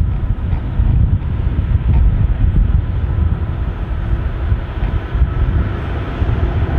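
Freight train passing close by: a steady, loud low rumble of the train running on the line.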